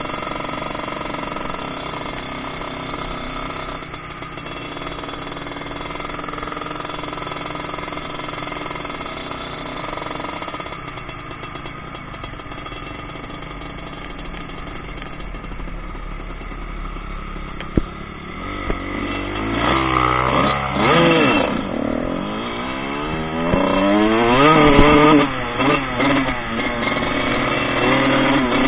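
Four-stroke motocross bike engine running at a steady speed, then revving up and down over and over as it is ridden hard on the track, with a single sharp knock just before the revving starts.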